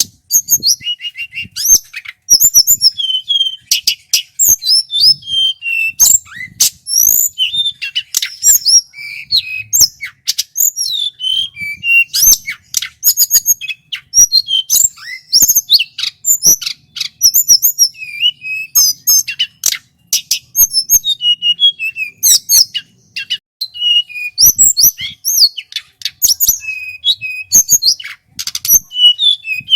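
A male hill blue flycatcher (tledekan gunung) singing at full volume. It gives rapid strings of high, clear whistled notes that glide up and down, mixed with sharp chattering notes, in one phrase after another with only short pauses.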